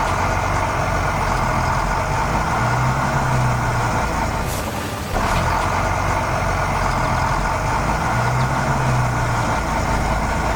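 A heavy construction vehicle's engine running steadily, with a low hum that swells and fades a few times. The sound cuts briefly and starts again about five seconds in.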